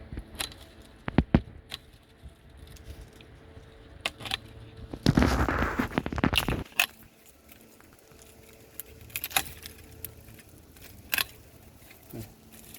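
A pruning lopper cutting crepe myrtle branches: sharp metallic clicks and snips of the blades closing, with a spell of rustling leafy branches about five seconds in.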